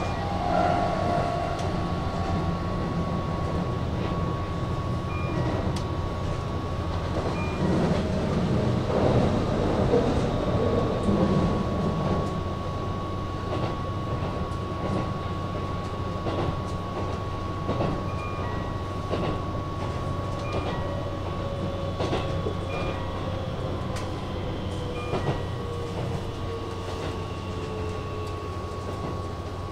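Keihan 8000 series electric train running, heard from inside the car: a steady rumble with the clack of wheels over rail joints. In the second half a motor whine slides down in pitch.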